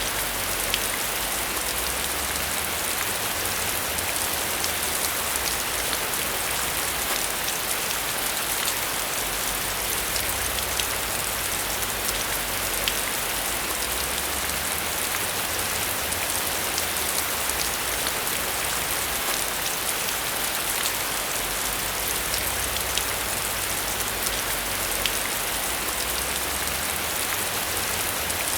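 Steady rain falling on a surface, an even hiss sprinkled with the ticks of individual drops.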